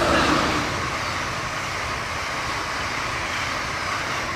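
Amtrak Northeast Regional passenger train, led by a Siemens ACS-64 electric locomotive, passing close by at speed. A steady rush of wheels and air is loudest right at the start and begins to fade near the end.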